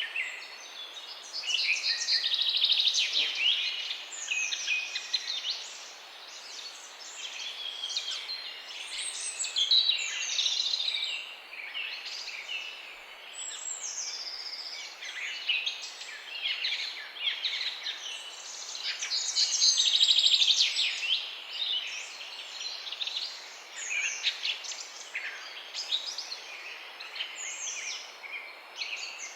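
Many birds chirping and twittering at once, a dense chorus of quick high calls and pitch sweeps that swells and thins over a faint background hiss.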